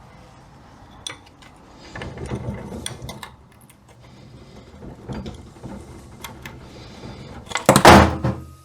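Metal transmission parts handled and clinking: scattered clicks and knocks, then a loud rattling clatter near the end.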